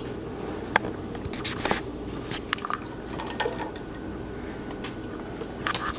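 Kitchen handling sounds: scattered clicks and knocks of containers and utensils, likely as a jar of sauce is added to the pan, over a steady low hum.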